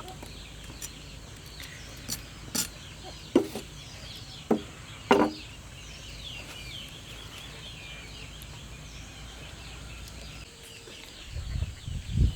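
Chickens clucking, with many short high chirps over the middle of the stretch. A few sharp knocks come in the first five seconds, and a low rumble starts near the end.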